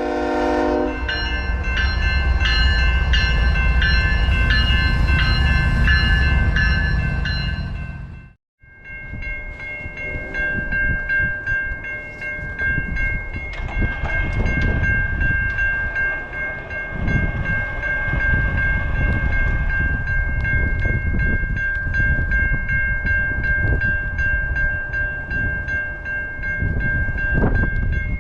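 Locomotive horn sounding a multi-note chord, held for long stretches over the heavy low rumble of a passing train. The sound drops out briefly about eight seconds in, then the horn chord resumes and carries on.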